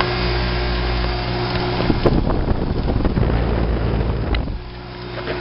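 2011 Guardian central air conditioner condensing unit running, with a steady compressor and fan hum. Wind buffets the microphone through most of it and eases briefly near the end.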